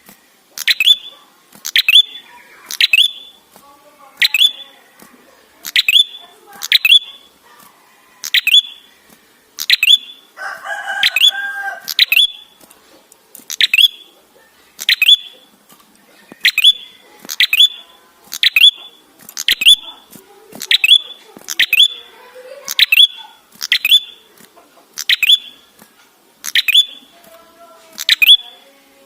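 Tailorbird (prenjak kepala merah) calling: a loud series of sharp, high notes repeated about once a second. A harsher, drawn-out call breaks in for a second or so near the middle.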